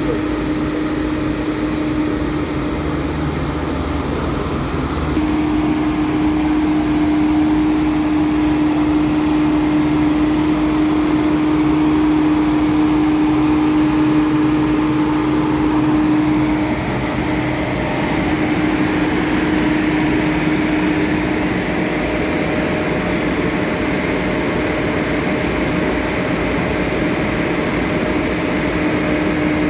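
Heavy diesel engine running steadily with a constant droning tone. It grows louder about five seconds in and changes tone about two-thirds of the way through.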